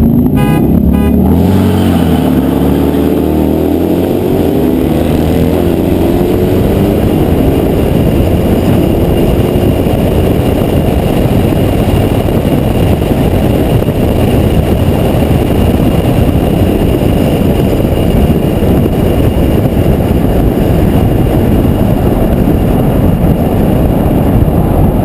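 A vehicle engine accelerating hard, its pitch climbing steadily over the first several seconds. This gives way to a loud, steady rush of wind and road noise at speed.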